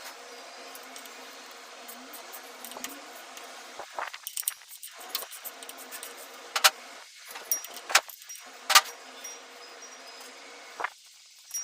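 Sharp metallic clinks and jangling rattles, spaced a second or two apart, from metal tools and parts being handled during work on an elevator machine.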